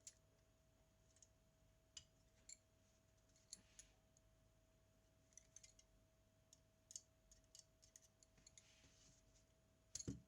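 Faint, scattered small clicks and ticks of tools and small metal parts being handled while working on a Zenit TTL camera, with a louder knock just before the end. A faint steady tone runs underneath.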